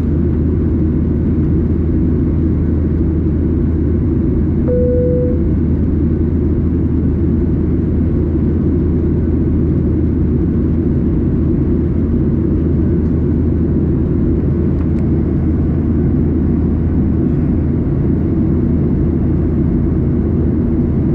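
Steady cabin noise of a Boeing 737-800 airliner in flight, a low even rumble of engines and airflow. A brief single tone sounds about five seconds in.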